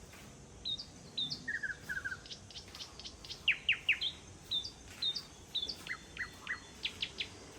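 Small songbirds chirping: a run of short, varied high chirps, with a few louder quick downward-sweeping notes in the middle.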